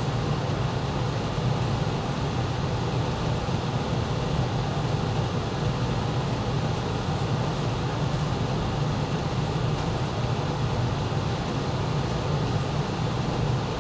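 Ruud GPN gas furnace's blower running steadily on its medium-low cooling speed, moving air with a low, even rush and hum. The blower is working against a restricted return air, which the technician takes for a return air problem.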